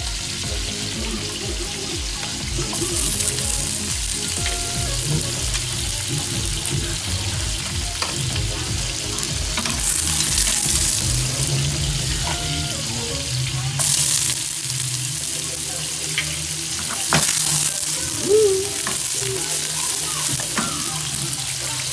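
Garlic and onions sizzling in hot oil in a nonstick frying pan, stirred with a wooden spoon. The sizzle starts about three seconds in and flares louder several times.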